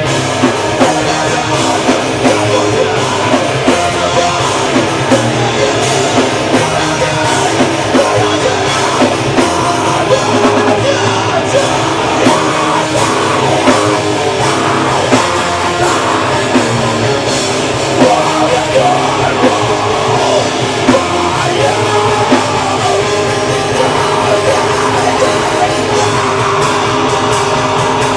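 Live heavy rock band playing loud: distorted electric guitars, a pounding drum kit and vocals, heard through the room's PA.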